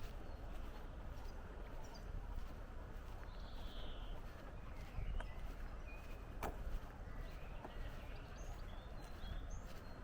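Outdoor ambience: a steady low rumble with a few short, high bird chirps scattered through the second half, and a single sharp click about six and a half seconds in.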